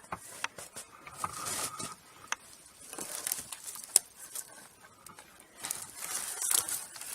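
Irregular rustling and scraping in dry brush and twigs, with scattered sharp snaps and cracks, as something pushes and noses through the undergrowth.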